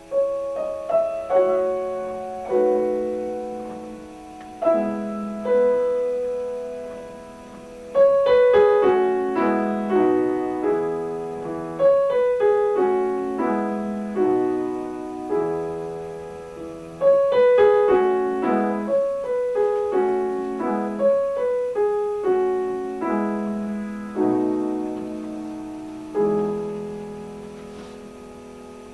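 Solo piano playing a slow piece of chords and melody, each note struck and left to ring out, in phrases with brief pauses between them.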